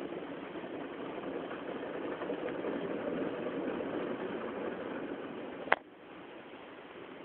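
Automatic car-wash machine spraying detergent-laden water over a car in a steady hiss. A single sharp click comes near the end, after which the spray is much quieter.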